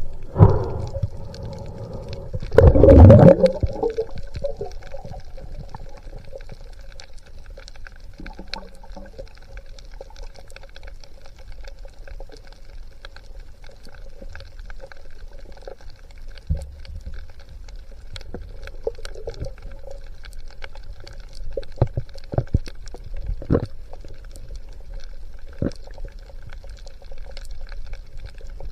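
Underwater sound on a spearfishing dive. A loud gurgling gush comes about three seconds in, then a steady low hum with scattered sharp clicks and knocks.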